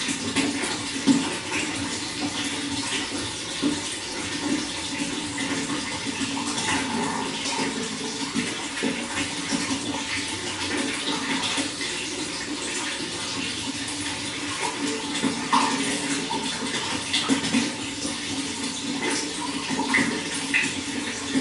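Running water flowing and splashing steadily, with small brighter splashes standing out here and there.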